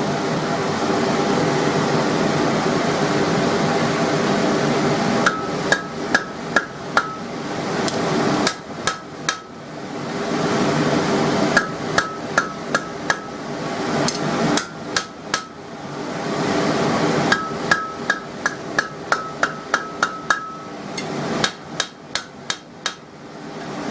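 Hand hammer striking hot steel on an anvil in six short runs of about four to ten quick blows, each blow with a short metallic ring, working a punched hole in a steel bar to open it out. Between the runs a forge blower whirs steadily with a low hum.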